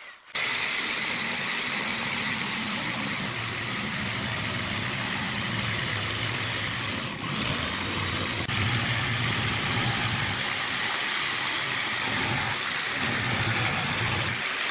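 Woodworking power tool running steadily, cutting out briefly just after the start and dipping for a moment about seven seconds in.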